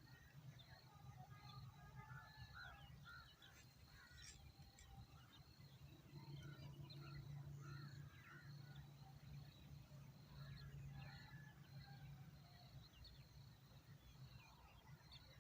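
Faint bird chirps and calls, with one high chirp repeating a little more than once a second over a steady low hum.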